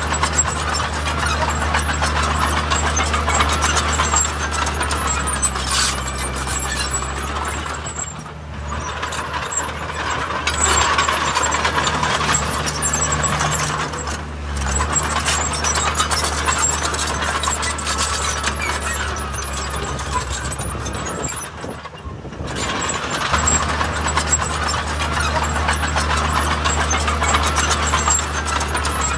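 Heavy diesel earthmoving machinery working: a steady low engine drone with dense metallic clatter over it. The engine eases off briefly three times and then picks up again.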